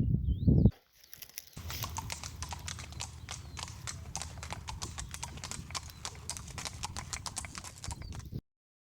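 Horse hooves clip-clopping in a steady run of sharp, quick beats, starting after a short low rumble and a pause, then cutting off abruptly near the end.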